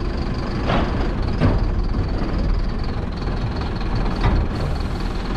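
Mercedes-Benz Atego hooklift truck's diesel engine running steadily, with a few short knocks from the truck at uneven intervals.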